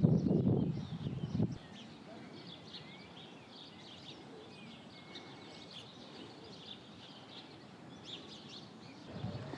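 A loud, low rushing noise that cuts off abruptly about one and a half seconds in, followed by many small birds chirping over a quiet outdoor background.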